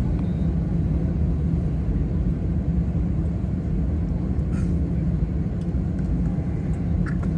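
Steady low rumble of an Airbus A320 airliner's engines and airflow, heard from inside the cabin.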